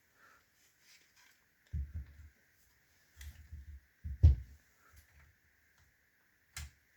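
Handling noise from a plastic building-brick model truck: a few scattered knocks and clicks as it is moved and set on a surface, loudest about four seconds in, over a faint steady high whine.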